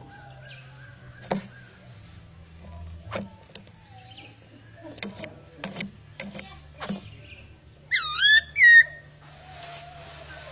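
A captive laughingthrush (poksai) calling. Sharp clicks and a few faint whistled notes come first, then about eight seconds in a loud burst of rapid warbling, looping whistles, over a low steady hum.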